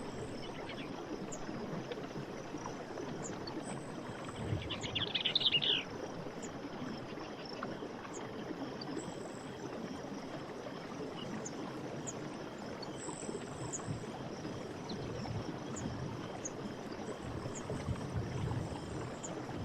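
Steady rush of a stream's running water, with birds chirping. About five seconds in, a short, loud, buzzy trill stands out above the water.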